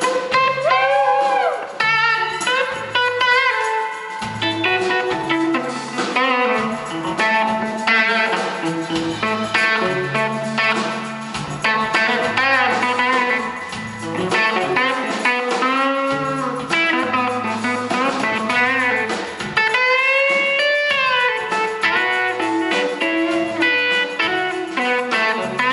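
Live blues-rock band playing an instrumental break: an electric guitar solo with bent notes over bass and rhythm backing.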